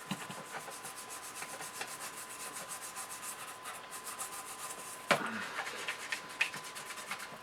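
A brush scrubbing a model car chassis in rapid back-and-forth strokes, then a sharp knock and some clatter about five seconds in.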